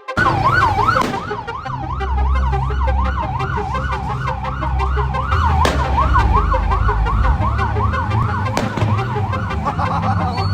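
Police siren on its fast yelp setting, a rising-and-falling wail about three times a second, over a low engine rumble.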